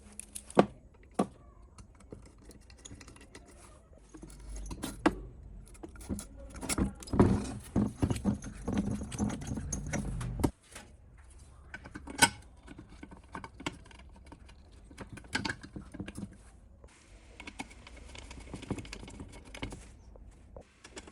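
Small metal parts and hand tools clinking and knocking, with a louder, busier stretch of clatter in the middle that cuts off suddenly.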